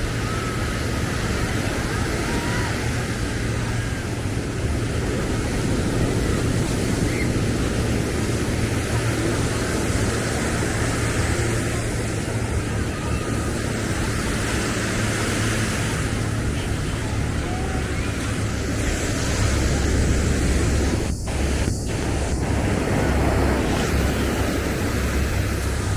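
Steady beach ambience of ocean surf washing in, with a low wind rumble on the microphone and faint voices in the background. Two brief dropouts interrupt it a little before the end.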